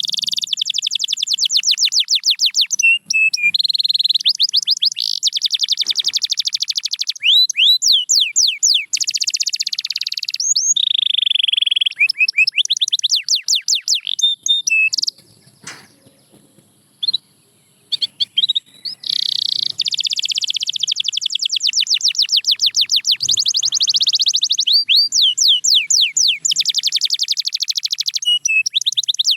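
Canary singing long runs of fast, evenly repeated high trill notes, broken by a pause of a few seconds a little past halfway.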